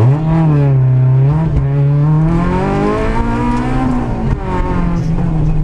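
Citroën Saxo VTS 16v's 1.6-litre 16-valve four-cylinder engine heard from inside the car, revving hard as it launches from the start line and accelerates. Its pitch climbs and drops back at each upshift.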